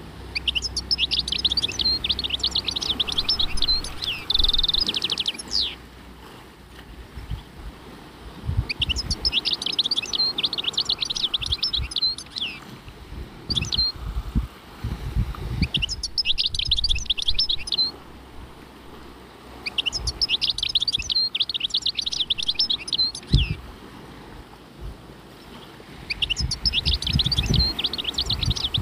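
A songbird singing in repeated phrases of rapid, twittering notes, each phrase lasting two to five seconds with short pauses between, over irregular low thumps.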